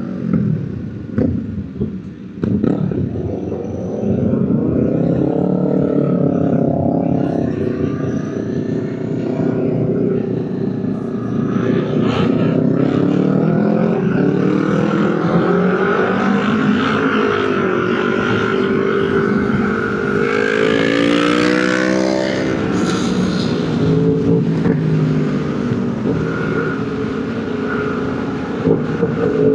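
Motorcycle engine running on the road, its pitch rising as it accelerates and dropping back several times, as through gear changes.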